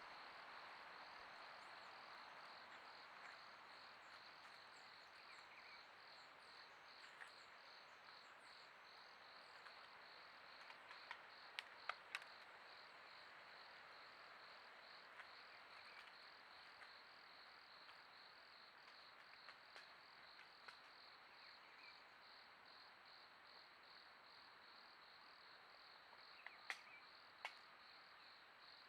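Faint, steady insect chirping, like a cricket, repeating in an even pulse over a soft background hiss. A few sharp clicks come near the middle and again near the end.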